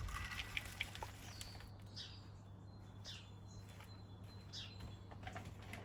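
Wild garden birds chirping: short high calls that slide downward, roughly one a second, with a few light clicks and rustles in the first second.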